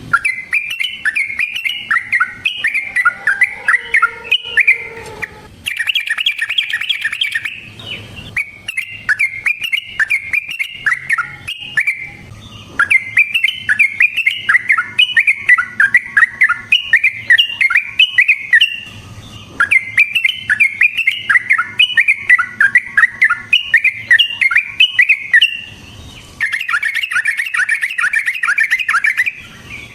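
Yellow-vented bulbul (trucukan) singing vigorously in long, fast runs of repeated chattering phrases. The song comes in bouts of several seconds separated by short pauses.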